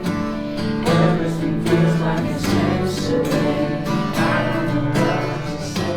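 Acoustic guitar music with strummed chords, changing chords about a second in and again about four seconds in.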